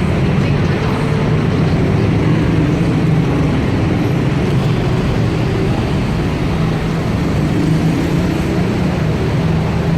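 Heavy city road traffic: a loud, steady din of vehicle engines running close by, with no pauses.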